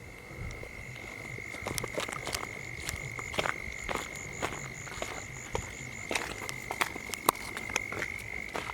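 Frogs croaking at night in irregular short calls, over a steady high-pitched whine.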